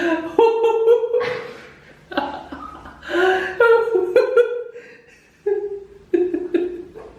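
A person laughing hard in repeated fits: several bursts of high-pitched laughter with short pauses between them.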